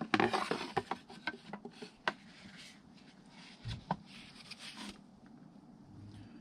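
Hard parts being handled on a workbench: a quick run of clattering clicks and knocks in the first two seconds, then scattered knocks and rustling, with one heavier knock about four seconds in.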